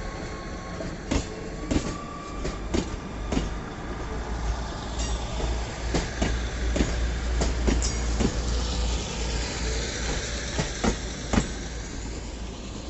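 A train moving through the station, its wheels clacking irregularly over rail joints and points above a steady low rumble, which eases off near the end.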